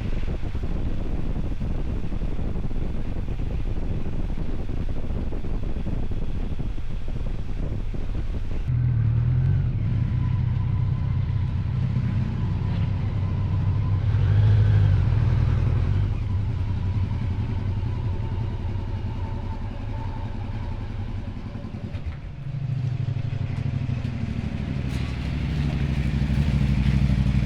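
Motorcycle engine running. For the first nine seconds it is a rough rumble under wind noise, then a steady engine note that dips briefly near the end and rises again.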